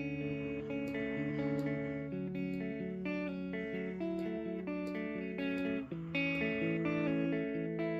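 Guitar being played: picked notes and chords ringing and changing every half second or so, with a brief drop just before the last couple of seconds.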